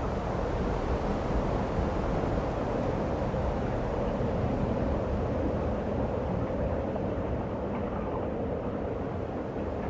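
Vehicle driving: a steady low rumble of engine and road noise with wind, unchanging throughout.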